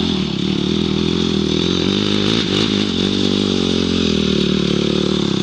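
Dirt bike engine running loud and steady under held throttle, kept on without letting up to push through a climb.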